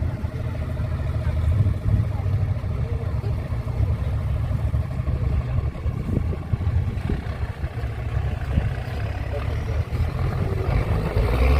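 Heavy off-road trial truck's engine running with a steady low rumble, with a few clattering knocks partway through and the engine picking up near the end.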